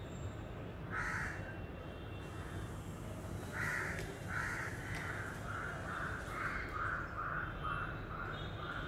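A bird calling: one call about a second in, then a long, even series of calls, two to three a second, starting about three and a half seconds in and slowly growing softer, over a steady low hum.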